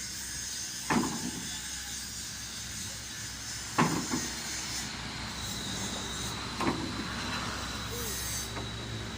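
Truck engine running steadily, with three sharp knocks about three seconds apart.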